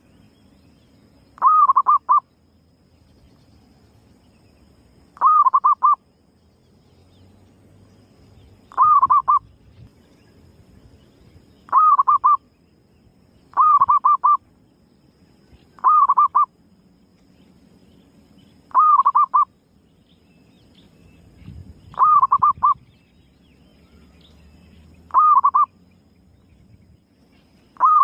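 Female zebra dove (perkutut) calling over and over, about ten times: each call is a short rising coo that breaks into a quick warbling trill, with two to four seconds between calls. This is the repeated call used to lure other perkutut.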